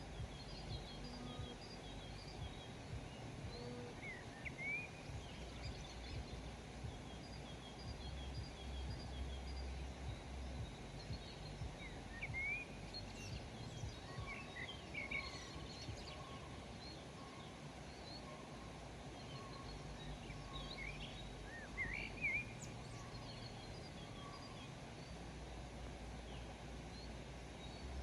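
Several songbirds chirping and singing over a steady background hiss and low rumble, with short rising and falling notes scattered throughout and a faint repeated note sung over and over.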